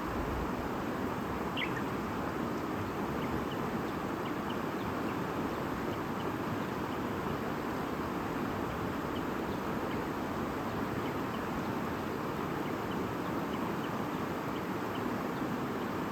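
Small river or stream murmuring steadily, with brief, faint bird chirps scattered over it; one chirp stands out just under two seconds in.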